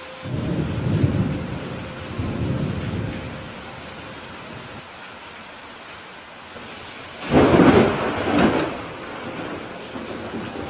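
Steady rain with two peals of thunder: a low rolling rumble at the start, and a sharper, louder crack about seven seconds in that rumbles on for a couple of seconds.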